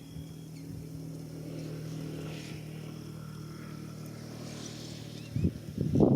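A distant engine running with a steady low hum, which stops about five seconds in. Near the end come loud irregular bursts of low sound.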